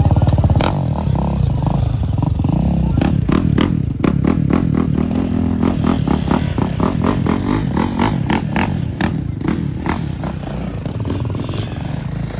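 Dirt bike engines running close by, with a run of sharp clicks and knocks through the middle.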